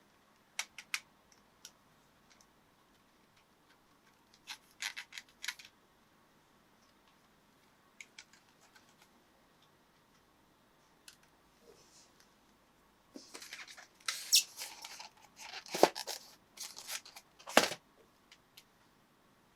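Model-train packaging being handled during unboxing: a few scattered clicks and taps, then several seconds of rustling with sharp snaps near the end.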